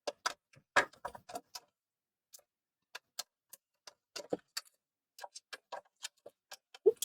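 Irregular light clicks and taps of tools and parts being handled while the motherboard of an opened PS4 Slim is taken out.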